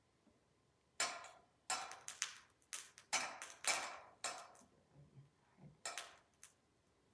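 About a dozen sharp clinks and taps of metal puja vessels and utensils, spaced irregularly through a few seconds, as the panchamrit offering is handled.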